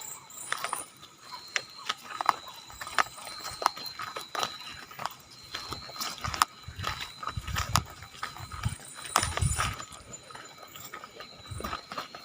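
Irregular footsteps: sharp clicks and knocks of people walking over rough ground, with a few heavier low thuds. A faint steady high-pitched tone sits underneath.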